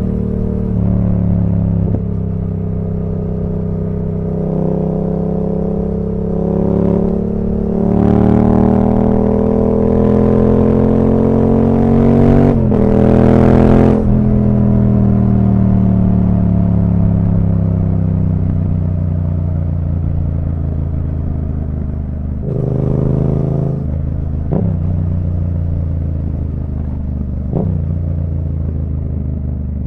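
A Yamaha MT-07's 689 cc parallel-twin engine through an Akrapovic full exhaust system, running under way. About a quarter of the way in it accelerates hard with one short break in the rising pitch, then slows over several seconds. Three short throttle blips follow near the end.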